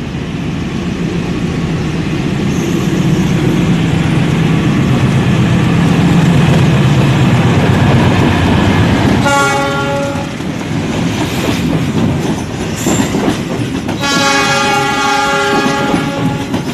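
Diesel-hauled passenger train passing close at speed, a loud engine rumble over the wheels clattering on the rails. A train horn sounds twice: a short blast about nine seconds in and a longer one from about fourteen seconds on, while the coaches go by.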